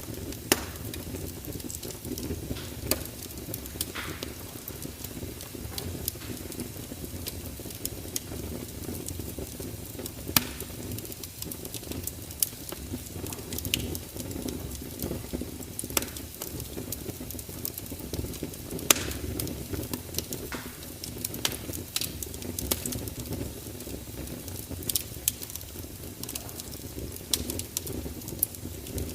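Wood fire burning with a steady low rumble and hiss, and irregular sharp crackles and pops throughout, a few of them louder.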